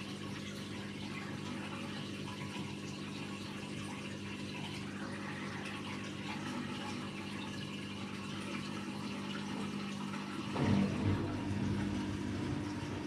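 AEG Lavamat Turbo washer-dryer running its wash cycle, with a steady hum and water flowing through the machine. About ten and a half seconds in, a louder low rumble starts.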